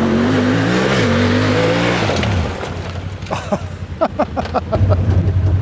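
Side-by-side UTV engine revving, its pitch rising and falling, then easing off about two and a half seconds in. A few sharp knocks follow, and near the end an engine comes in running steadily at low revs close by.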